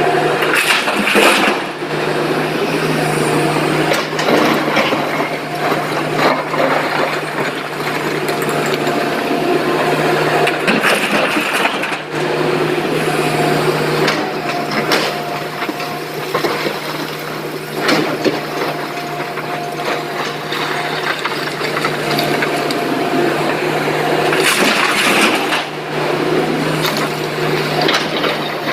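Excavator's diesel engine running steadily under load, with repeated rough scraping and clattering of stone as it digs and loads a dump truck, and a few sharp knocks.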